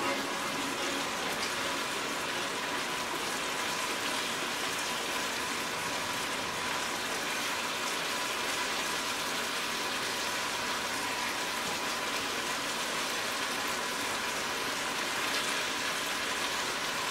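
White beans and pasta sizzling steadily in a hot frying pan as they are stirred with a spatula.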